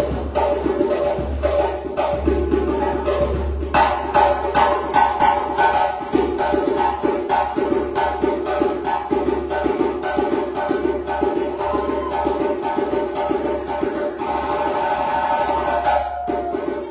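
West African djembe drum ensemble playing a fast, dense rhythm, sharp hand strokes over a steady low drum pulse.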